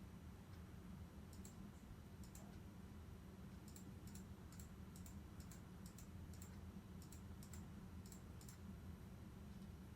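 Faint, sharp light clicks, about a dozen, many in quick pairs, over a low steady hum.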